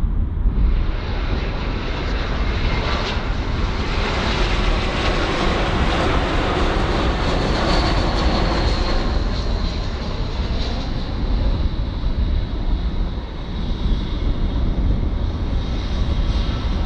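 Airliner's engines passing close by, a loud rushing roar that starts abruptly, swells to a peak midway and then eases slightly while holding on, over a steady low rumble.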